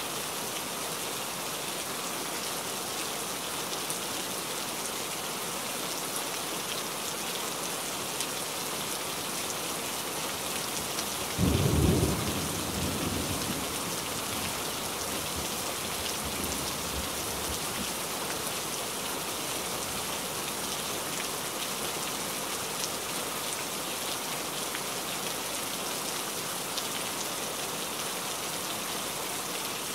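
Steady downpour of rain on forest foliage. A little before halfway a single loud thunderclap breaks in and rumbles away over a few seconds.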